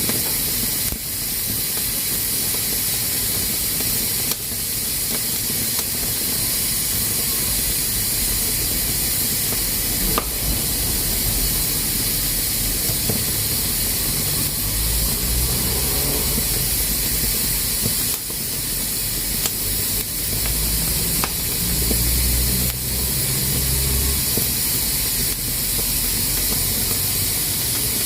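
Pressure cooker steadily hissing as steam escapes from its valve. A low rumble comes and goes in the middle, with a few faint clicks.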